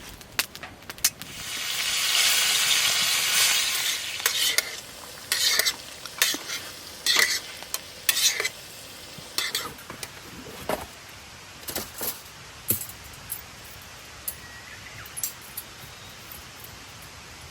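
Food sizzling in a hot pan: a loud hiss starts about a second and a half in and dies away after a few seconds. Then comes a string of short scraping and clinking strokes from a utensil stirring in the pan, which grow sparser toward the end.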